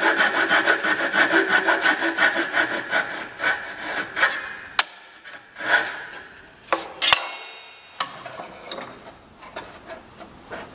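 A hand tool rubs quickly back and forth on white oak, several strokes a second, fading out about three to four seconds in. Scattered knocks and clicks of wood and tools being handled follow.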